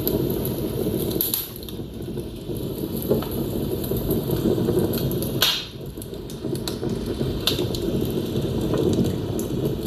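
Wood fire burning in a fireplace: a steady low rumble of flames with irregular crackles and sharp pops from the burning logs, the loudest pop about five and a half seconds in.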